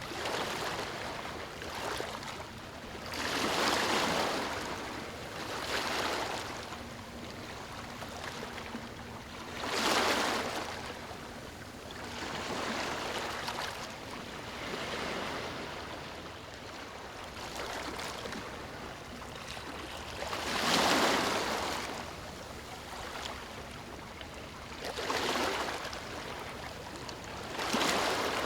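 Small waves lapping and washing on a beach, each wash swelling up and fading, several seconds apart, over a steady background hiss of water.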